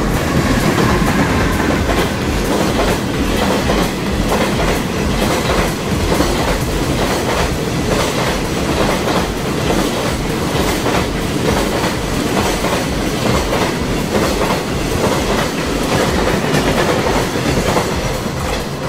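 A JR Freight EH500 electric locomotive hauling a long container freight train past at speed. The wheels clatter in a steady clickety-clack over the rail joints as the wagons go by.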